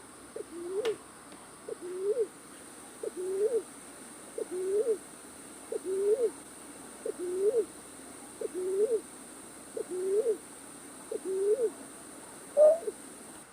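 Recorded call of a night bird played back as a trapping lure: a low two-part hooting note, rising then falling, repeated about every second and a half. Near the end the notes turn higher and single.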